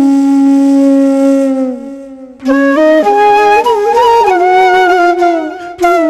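Background music led by a flute melody: a long held note that sags in pitch and fades out about two seconds in, then the tune picks up again with a run of stepping notes.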